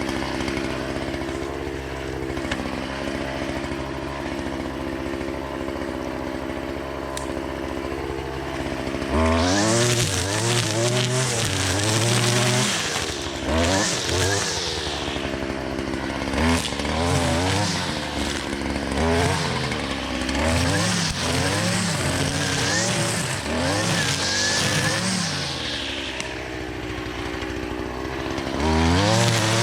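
Two-stroke gas string trimmer (weed eater) engine running steadily at low speed for about nine seconds, then throttled up and run with its pitch rising and falling repeatedly as it cuts through tall grass and weeds.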